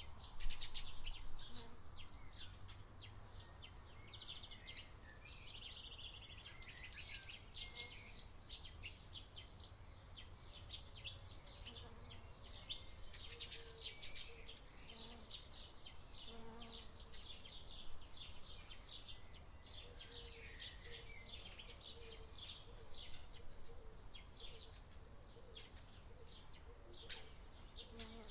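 Many small birds chirping and twittering continuously in a busy chorus of short, high calls, over a low steady rumble.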